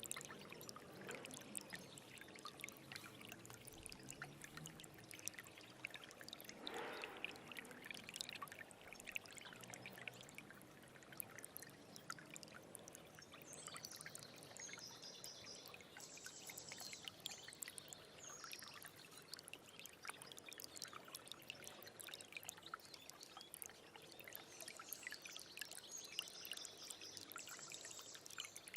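Small stream trickling and babbling over stones, a steady soft splashing full of tiny drips. A bird calls twice in the background with a short high chirping phrase, about halfway through and again near the end.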